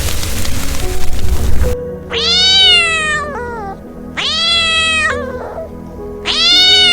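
A cat meowing three times in long, drawn-out calls that rise and then sag in pitch, after a loud rushing noise that fills the first second and a half.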